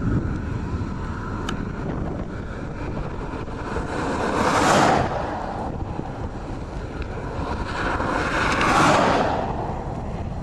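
Wind rumbling on the camcorder microphone, with two rushing swells about four seconds apart.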